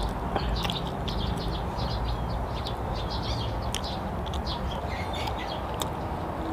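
Small birds chirping in short, scattered calls, with a few sharp mouth clicks from a man chewing a piece of sticky mango leather, over a steady low background.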